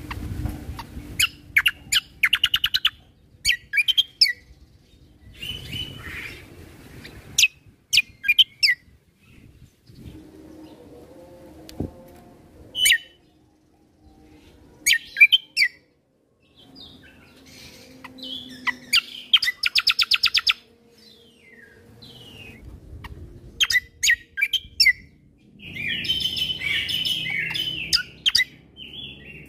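Kecial kombo (cucak kombo) songbird singing in bursts of sharp chirps and rapid, evenly pulsed trills, broken by short pauses. The longest trill comes about twenty seconds in, and there is a dense run of song near the end.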